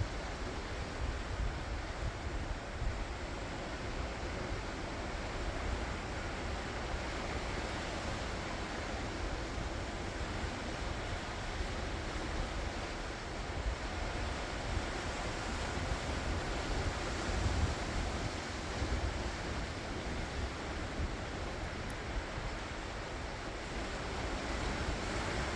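Ocean waves washing onto the shore in a steady, unbroken wash of surf, with wind rumbling on the microphone.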